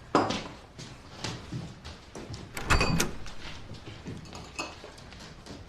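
A door being handled, with light knocks and a louder clack and heavy thud about three seconds in.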